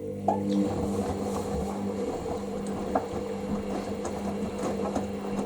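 Hoover washing machine at the end of its rinse, running with a steady motor or pump hum, water swishing and small knocks from the drum. The hum sets in just as the machine moves on towards its intermediate spin.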